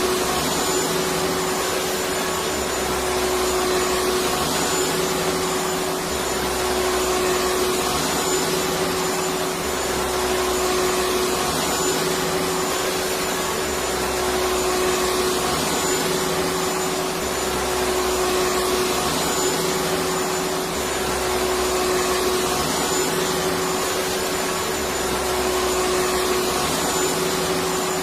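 Electric vacuum cleaner motor running continuously: a steady airy whoosh with a constant humming whine. A slight low throb repeats every two seconds or so.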